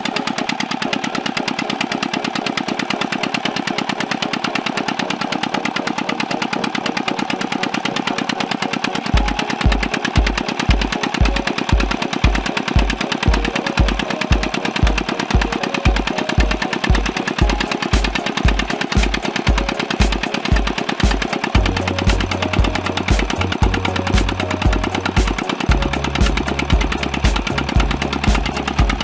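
Diesel engine driving a tube-well water pump through gearing, running steadily with a fast, even chugging. From about a third of the way in, a deep thud repeats roughly twice a second.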